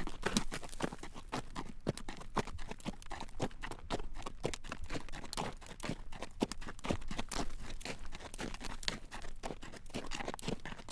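A horse's hooves clacking on a road at a walk as it draws a carriage: an uneven run of sharp clip-clops, several a second.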